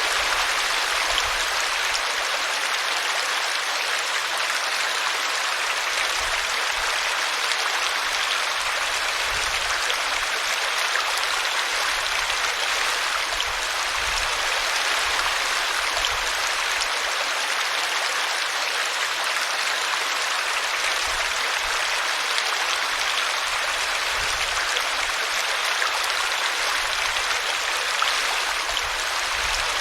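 A small brook running over a tree root: a steady, even rush of splashing water.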